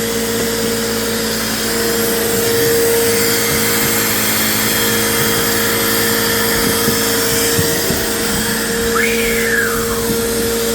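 Bagless vacuum cleaner running steadily with a constant hum while it picks up dog hair. Near the end a brief whistle rises and falls.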